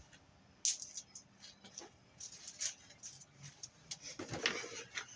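Armored BX cable and copper wire being handled, making scattered light metallic clicks and rattles. There is a longer scraping squeak a little past four seconds in.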